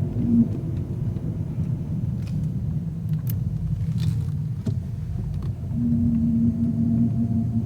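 SRT8 car driving gently under light throttle with a steady low rumble. A steady hum joins briefly near the start and again from about six seconds in, and a few faint clicks sound in the middle.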